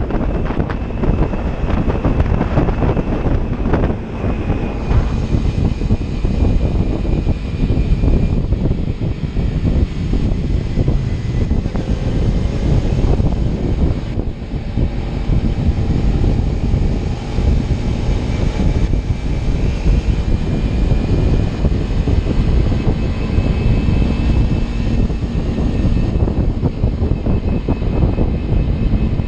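Kawasaki Ninja 300's parallel-twin engine and exhaust running steadily while riding, mixed with heavy wind rush on the microphone.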